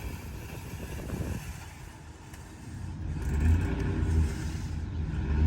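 Ford Expedition SUV's engine rumbling at low revs, then running louder under load from about three seconds in as the SUV pushes dirt with a front-mounted ATV plow.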